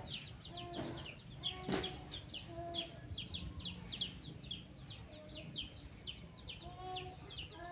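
Small birds chirping constantly in quick, high, falling notes, about three or four a second, with chickens clucking in short low notes every second or two.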